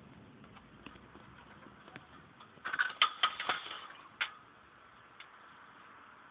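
Scattered sharp ticks and taps over a low hiss, with a quick flurry of louder ones about three seconds in and one more a second later.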